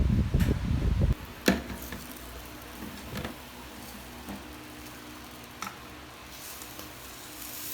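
A low rumble that cuts off about a second in, then a few light clicks and knocks over quiet room tone.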